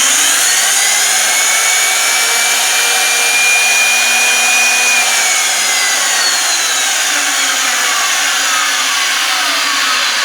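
A 1-gallon blender running, its motor and blade blending liquid. The whine rises as the motor spins up, holds steady, then falls gradually through the second half as the speed drops.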